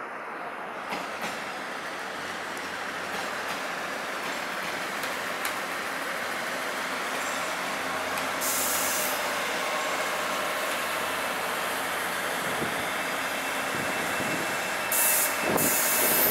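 Train running on the rails, its noise building gradually, with scattered clicks. Two short bursts of high hiss come through, one about halfway and one near the end.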